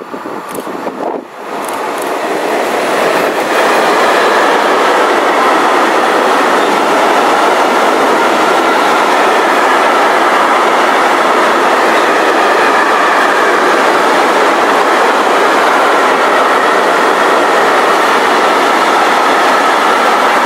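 Freight train of tank wagons passing close at speed: the noise builds over the first few seconds as the train arrives, then holds as a steady loud rush of steel wheels on rail while the tank cars roll by.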